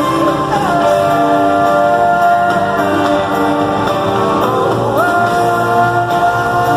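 Live pop ballad with band accompaniment and a female lead vocal holding long notes, sliding to a new note about half a second in and again about five seconds in.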